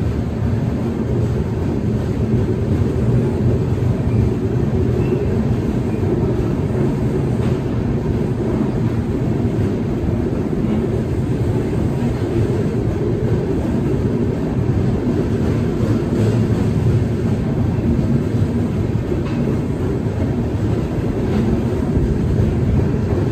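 Passenger train running along the track: a steady, loud rumble of the coach and wheels on the rails.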